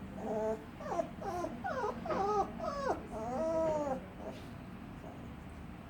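Puppy whimpering and moaning in a run of short whiny calls that swoop up and down in pitch, ending about four seconds in.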